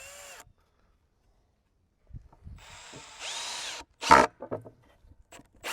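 Power drill driving a screw into a wooden cover board: a short burst of the motor, a pause, then about a second of steady driving with the motor pitch rising and falling under load. A loud knock follows just after the drill stops, then a few lighter knocks and clicks.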